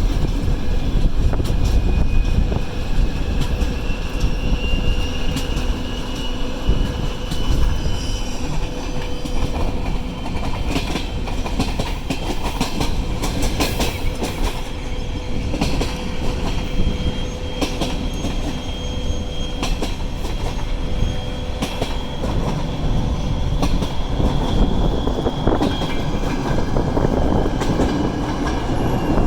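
Passenger train hauled by a TEP70 diesel locomotive rolling along steadily, its wheels clicking over rail joints, with a thin high wheel squeal coming and going.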